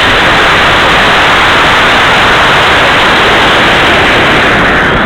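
Model rocket motor firing, a loud steady hissing rush of exhaust that holds at one level.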